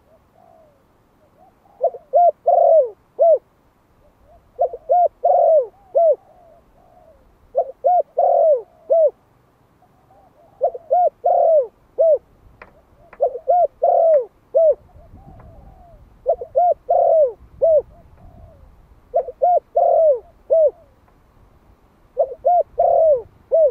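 Young male spotted dove giving its calling coo. A short phrase of four or five coos comes about every three seconds, eight times, with fainter coos in between.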